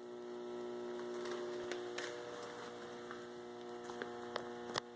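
A steady electrical hum, with a few faint clicks scattered through it.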